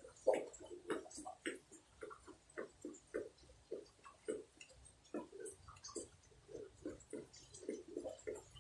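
Faint, uneven soft taps, about three or four a second.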